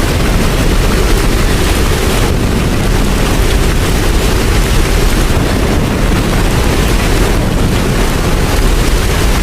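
Steady heavy rain with a deep, even rumble underneath, no clock chime.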